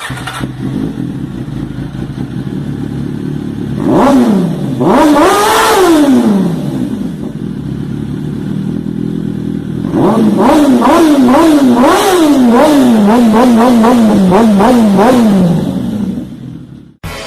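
Motorcycle engine idling, then revved up with a rise and slow fall in pitch about four seconds in. Later it is revved repeatedly in quick blips, about two a second, for around five seconds before dropping back to idle.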